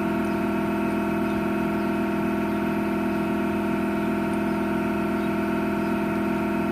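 A machine or engine running steadily in the background: an even drone made of several fixed pitches that do not change.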